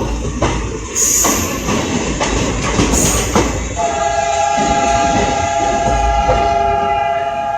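Passenger train clattering past, its wheels knocking over rail joints and points, with two short high squeals in the first half. From about four seconds in, the WDM3A diesel locomotive's air horn sounds one long steady blast that holds to the end.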